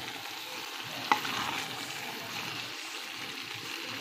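Goat meat wet fry sizzling in a metal pot while a wooden spoon stirs it, with one sharp knock about a second in.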